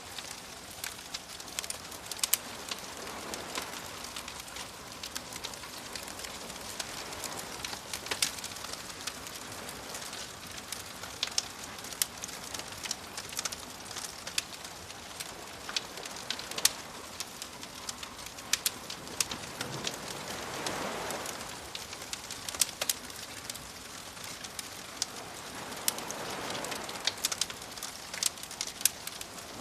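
Wood fire crackling with frequent sharp pops, over a soft wash of waves that swells up a few times, most strongly around twenty seconds in.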